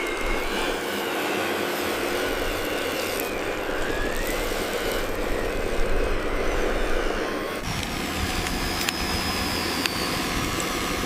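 Radio-controlled model construction machinery running, a steady mechanical hum with faint motor whine that rises and falls in pitch; the sound changes abruptly about seven and a half seconds in.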